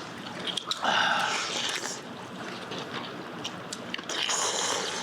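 Slurping hot chicken soup broth: two long slurps, one about a second in and another near the end.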